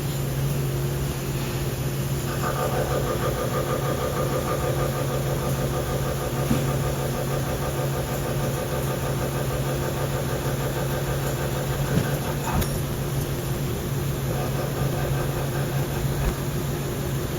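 Haas VF2 CNC vertical mill running a spline-milling cycle on a pump shaft, with a steady machine hum. About two seconds in the cutter starts cutting, adding a fast, even buzz of tooth strikes that carries on. A single sharp click comes about twelve seconds in.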